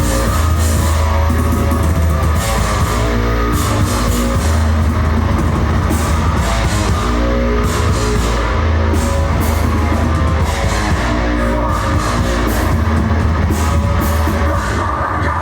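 Heavy metal band playing: distorted electric guitars holding chords over bass and drums, with no vocals yet.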